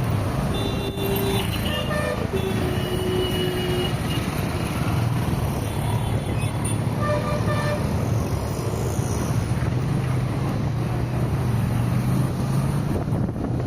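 Steady road and traffic noise from a car driving through city traffic, with vehicle horns honking: several horn blasts in the first four seconds and a couple more about six to seven seconds in.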